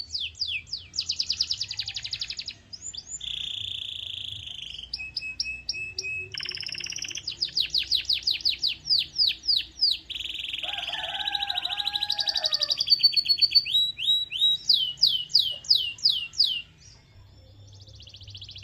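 Canary singing: quick runs of rapidly repeated high notes, many sweeping down in pitch, alternating with trills and held whistles, with a brief lower phrase near the middle. The song breaks off about two seconds before the end.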